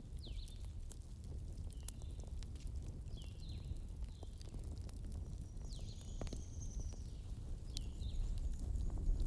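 Fire crackling with a steady low rumble and scattered sharp pops. Short high chirps repeat about once a second over it, with one longer high whistle about six seconds in.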